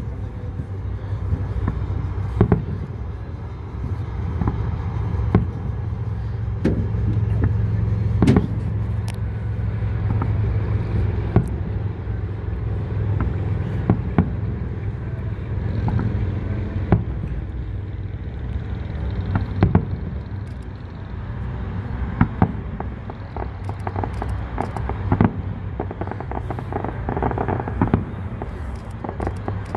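Aerial fireworks bursting: irregular sharp bangs, some ringing out briefly, every second or so over a steady low hum.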